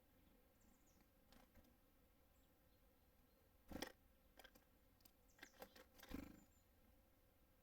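Faint, irregular taps and knocks of small birds landing and pecking at a bird feeder. The loudest knocks come about four and six seconds in, with a faint high bird chirp now and then.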